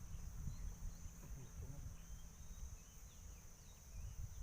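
Outdoor pond-side ambience: insects, crickets or cicadas, keep up a steady high-pitched drone that fades in the middle and swells again near the end. Under it runs an uneven low rumble, with a few faint short chirps.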